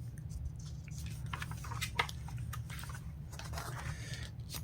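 Handling of a paper catalog: soft rustling and scattered small clicks as pages are moved and turned, with one sharper click about two seconds in, over a steady low hum.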